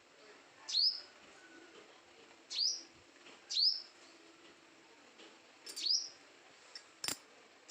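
A bird calling: four short, clear calls, each sweeping quickly upward, spaced one to two seconds apart, with a single sharp click shortly before the end.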